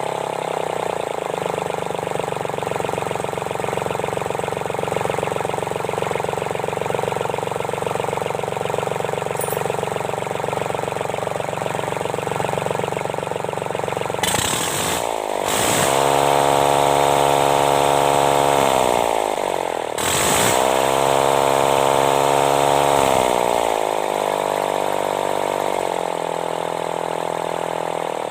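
Sunshine L1-255 tractor's D1462-TV diesel engine idling steadily, then revved up twice about halfway through, holding the higher speed a few seconds each time before settling back to idle. The engine is running after its valve seats and piston rings were replaced to cure a noisy engine.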